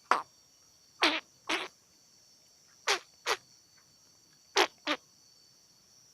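An animal calling in short, sharp two-note pairs, four pairs in all, over a steady high insect drone.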